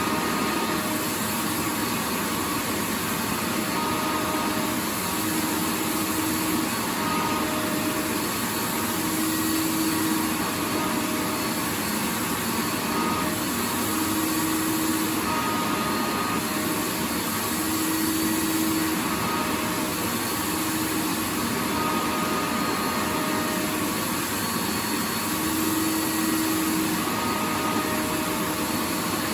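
Vacuum cleaner running steadily: a continuous rushing hiss with a faint motor hum that drifts in and out.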